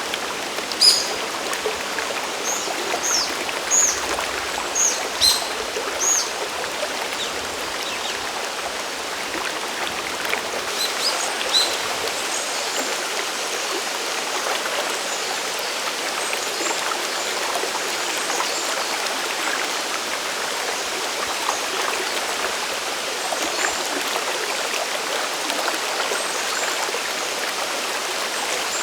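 Steady rush of falling and flowing water from Sagiri Falls and its mountain stream. A bird gives short, high chirps several times in the first dozen seconds.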